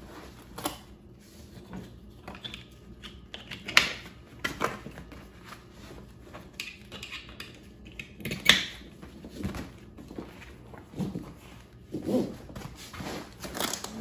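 Handling noise from a seat being fitted into an inflatable kayak: scattered clicks, knocks and rustles. The sharpest knocks come about four seconds in and again past eight seconds.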